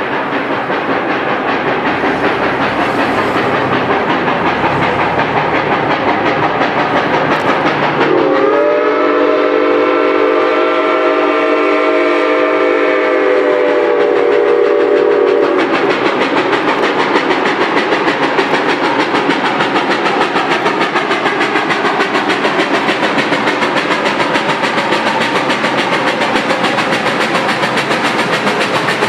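Canadian National 7470, a small 0-6-0 steam locomotive, working a train with a steady rapid rhythm of running noise. About eight seconds in, it gives one long blast on its steam whistle, several notes sounding together, held for about seven seconds before the running noise carries on alone.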